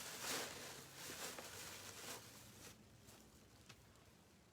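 Soft rustling and handling noise of craft materials on a work table, fading out after about two and a half seconds.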